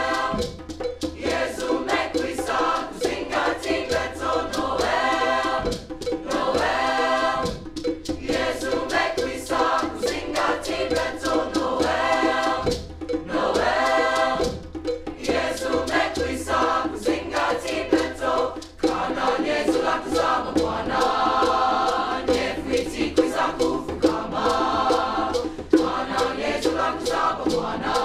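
School choir singing a Christmas song in an African language with a repeated 'Noel' refrain, many voices together without a break.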